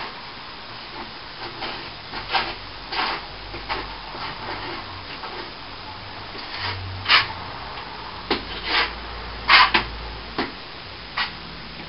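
A hand tool scraping on plaster in short, uneven strokes, a few a second: the crack in the wall being worked during the repair.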